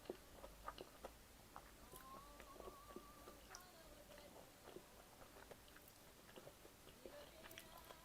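Faint chewing and eating sounds: scattered small clicks and mouth noises at a low level.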